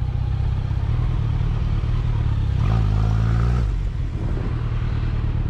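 Motorcycle engine running under steady wind rumble, with the engine note rising briefly about three seconds in.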